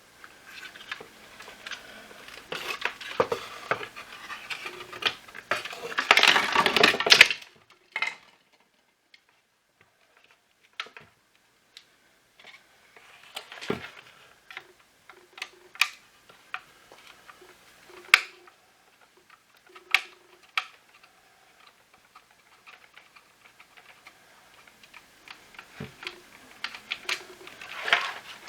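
Hard plastic vacuum cleaner parts being handled while the cordless vacuum is taken apart. There is rattling and clattering for the first several seconds, then scattered sharp clicks and taps, and more rattling near the end.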